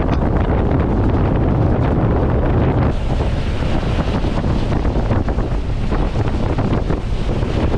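Heavy wind buffeting the microphone aboard a fishing boat running at speed, over the rush of water and engine noise.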